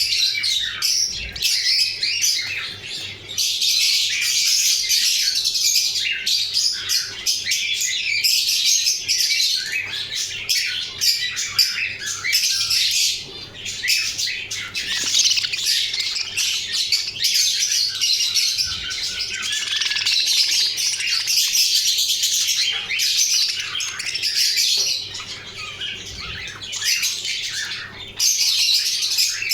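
Budgerigars chattering and chirping without pause, a dense high twittering with short lulls about halfway through and near the end.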